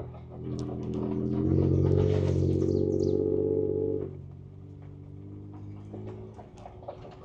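Engine of a 2024 Ford Ranger Raptor, a twin-turbo V6, heard from inside the cabin: it runs low, swells under throttle from about a second and a half in with its pitch climbing slightly, then drops back near idle at about four seconds. Scattered small knocks and rattles sound throughout.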